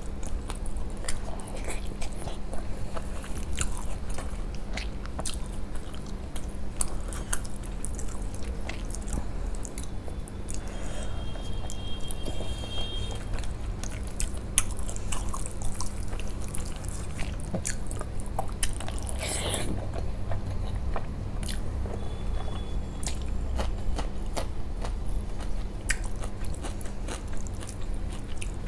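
Close-up chewing and wet mouth sounds of someone eating rice and fish curry by hand, with many small lip smacks and the squish of fingers mixing rice and curry on a steel plate.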